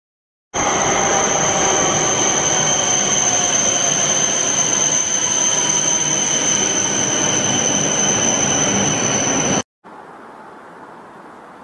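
E7/W7-series Shinkansen high-speed train running through an underground station: a loud rushing rumble with a steady high-pitched whine over it. It starts abruptly about half a second in and cuts off suddenly near the end, leaving a much quieter steady hiss.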